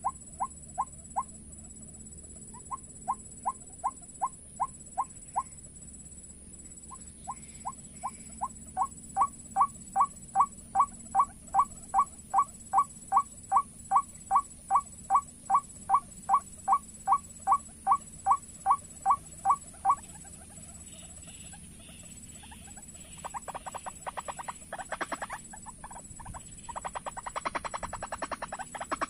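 White-breasted waterhen calls from a bird lure: long runs of short, evenly repeated notes at about two and a half a second, pausing briefly and stopping about two-thirds of the way through. Near the end comes a faster, harsher chattering.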